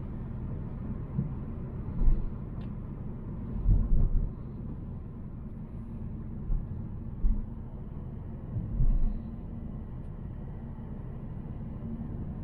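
Volvo C70 driving: a steady low rumble of engine and road noise, with a few short low thumps.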